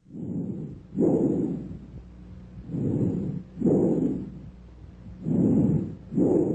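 Bronchial breath sounds heard through a stethoscope: loud, hollow breathing in and out, with a brief silent gap between each breath in and the breath out. About three breaths are heard.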